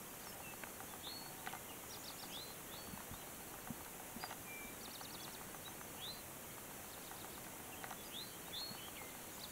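Songbirds singing, with short up-swept chirps and quick trills from several birds, over a steady hiss.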